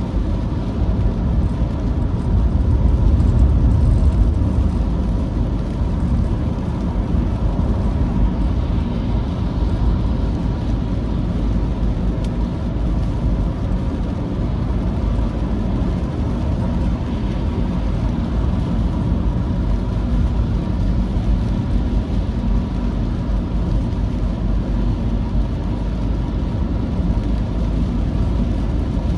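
Steady low rumble of a vehicle travelling on a wet road in the rain, engine, tyre and wind noise blended together, swelling slightly a few seconds in.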